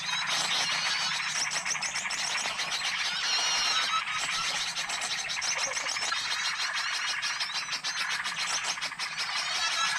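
Bird-lure recording of many small birds chirping and twittering at once in a dense, unbroken chorus, with a brief clear whistle a few seconds in.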